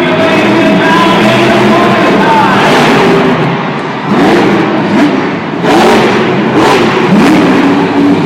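Music playing over loudspeakers, then from about four seconds in a monster truck engine revving in several rising-and-falling surges.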